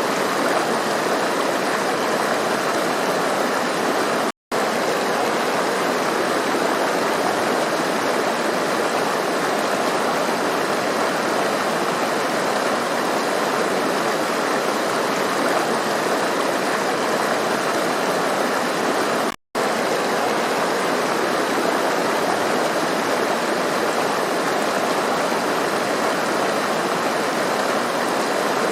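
Stream water running and splashing over rocks, a steady rush. The sound drops out for an instant twice, about four seconds in and again about nineteen seconds in.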